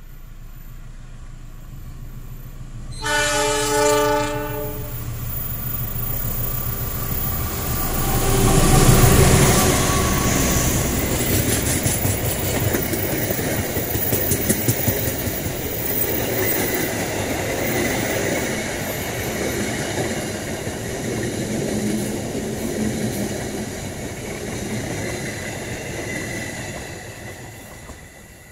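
Passenger train hauled by a CC206 diesel-electric locomotive sounds its multi-note horn for about two seconds, then passes close by. The locomotive's passing is loudest about nine seconds in. A long run of coaches follows with rolling wheel clatter over the rails, fading as the last coach draws away near the end.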